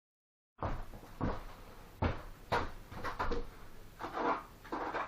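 Bricklaying with clay mortar: a string of about eight sharp knocks and short scrapes, as of a trowel working mortar and tapping bricks into place, starting about half a second in.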